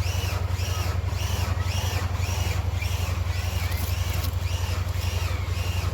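The 33 hp diesel engine of a New Holland TC33D tractor idling steadily, with a high-pitched squeak that rises and falls about twice a second.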